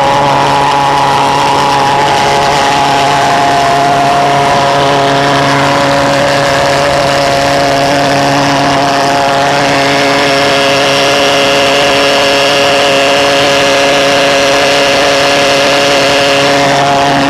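A homemade reed-valved pulse jet engine running, loud and steady at a constant pitch. A fainter high whine joins about ten seconds in.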